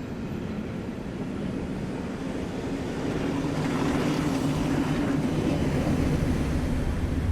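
Train running on the tracks, a steady low rumble that grows gradually louder.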